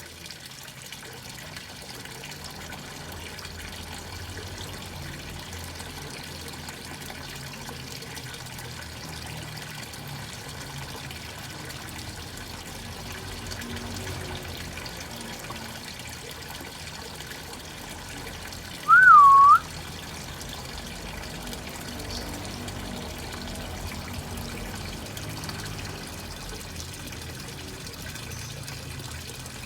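Steady faint background noise with one short, loud whistled note about two-thirds of the way through that dips and then rises in pitch.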